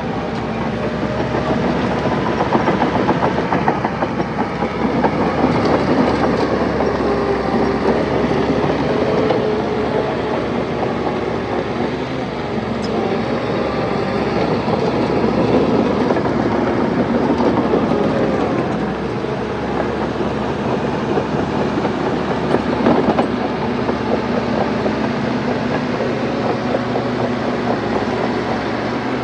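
Heavy diesel earthmoving machinery working steadily, its engine note rising and falling under load, with a continuous metallic clatter.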